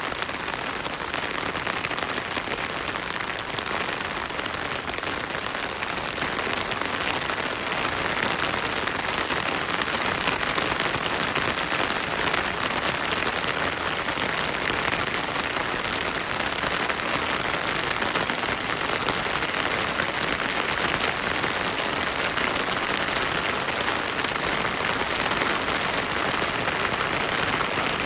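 Heavy rain falling steadily, a dense even hiss of drops that grows a little heavier about a quarter of the way in.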